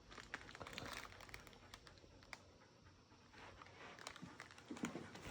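Faint scattered clicks and light rustling of puppies moving about and handling a toy, a little busier near the end.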